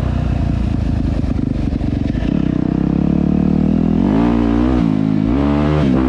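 Dirt bike engine running steadily, then revving up and back down twice in the second half.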